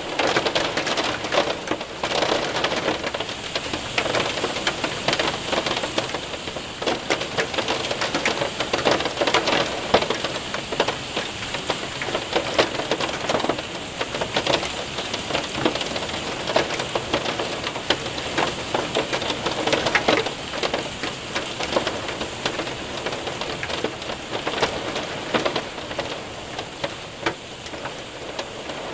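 Hail and rain pelting a window and roof: a dense steady hiss of rain with many sharp ticks and clicks of hailstones striking.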